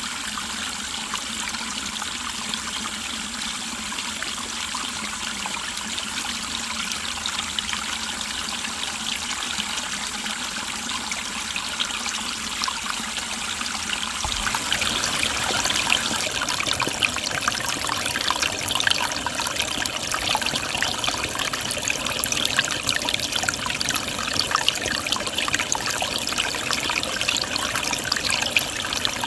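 Mountain stream water babbling and trickling over rocks. About halfway through it becomes louder and fuller, with more splashing.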